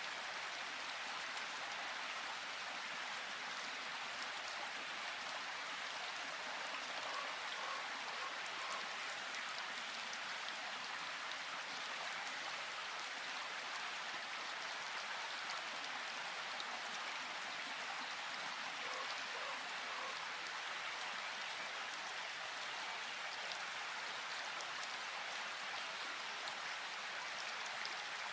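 Steady rain falling: an even, unbroken hiss of many raindrops that never lets up.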